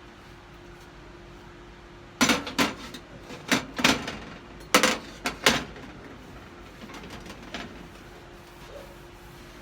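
A quick run of about eight sharp clatters over some three seconds, hard objects knocking together or being set down, over a faint steady hum.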